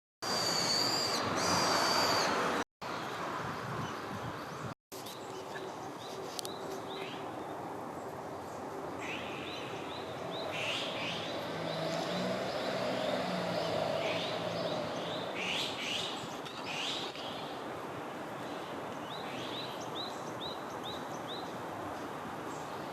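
Azure-winged magpies calling: short, quick notes repeated in runs, over a steady outdoor background hiss. A held high whistle opens the clip, and the sound cuts out completely twice within the first five seconds.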